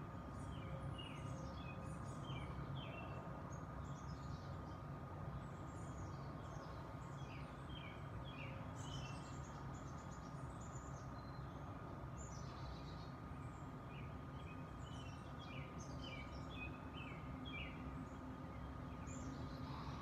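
Small birds chirping, a quick string of short high chirps that sweep downward, coming again and again. Beneath them runs a steady low rumble with a thin, steady high tone.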